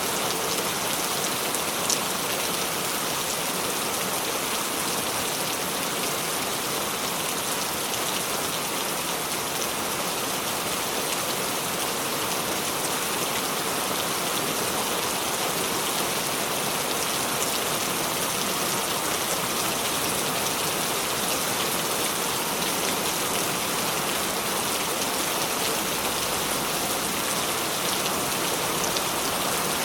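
Steady rain falling, an even, continuous hiss with one faint sharp tick about two seconds in.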